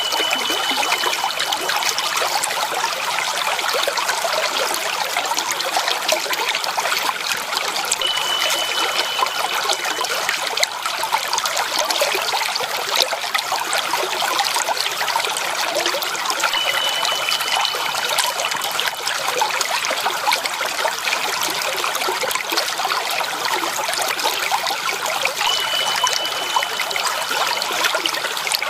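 Running water trickling steadily and evenly. A thin high tone sounds four times, about every eight or nine seconds, each held for a second or two.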